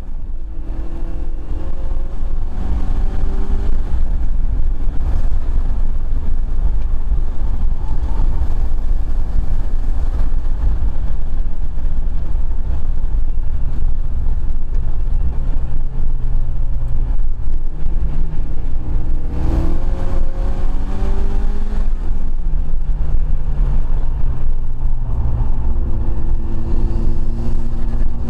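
Mitsubishi Lancer Evo V's turbocharged four-cylinder engine heard from inside the cabin through the open driver's window, being driven hard around a circuit. The engine note rises under acceleration and drops at gear changes and braking, over heavy low rumble.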